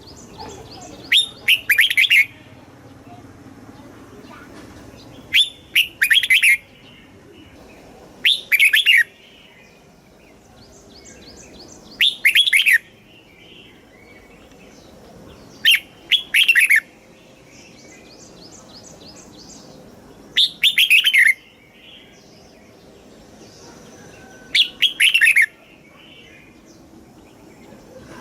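Red-whiskered bulbul singing short, loud whistled phrases, one about every four seconds, seven in all. Fainter high chirps fill the gaps between them.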